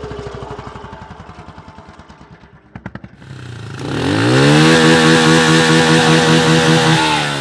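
Small pit bike engine running and fading away, then another pit bike engine revving up close by and holding at high revs for several seconds before easing off near the end.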